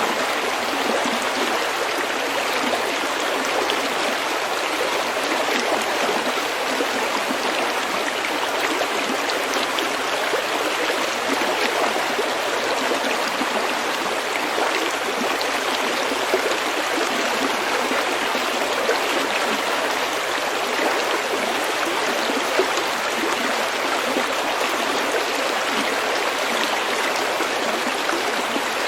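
Small stream babbling steadily over pebbles, with a few faint louder splashes.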